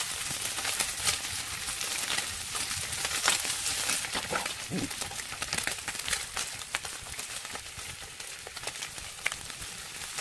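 Pork belly sizzling over a wood-charcoal fire, a steady hiss with many sharp pops and crackles of spitting fat, busier in the first half.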